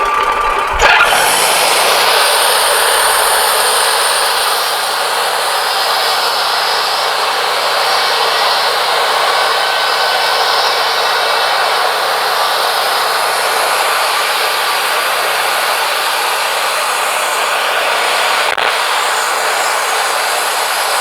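Wood-Mizer LT40 band sawmill's blade cutting lengthwise through a pine log, a loud, steady rushing noise with the mill's motor running under it; the cut's sound sets in sharply about a second in.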